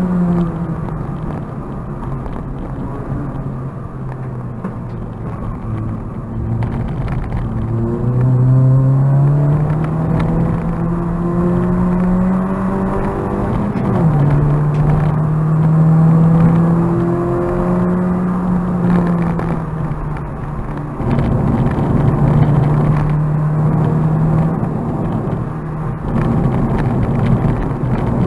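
Citroën Saxo VTR's 1.6-litre four-cylinder engine heard from inside the cabin, driven hard on track. The revs climb steadily, drop sharply about halfway through, then climb again. They fall away briefly and then hold steady near the end.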